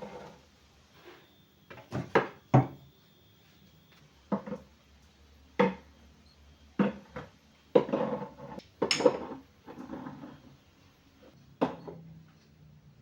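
Kitchen things being handled and set down on a shelf or counter: a string of sharp knocks and clatters of wood and dishware, busiest a little past the middle.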